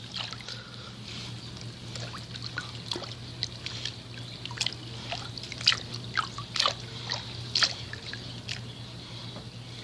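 Water sloshing, trickling and dripping as a Hayward Navigator Pro pool cleaner is hauled out of the pool, with irregular sharp splashes.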